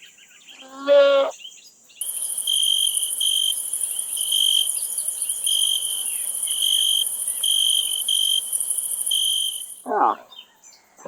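A short wavering animal call, then insects chirping for about eight seconds: a steady high hiss with a repeated pulsed chirp about once a second, which stops suddenly. A short falling animal call follows near the end.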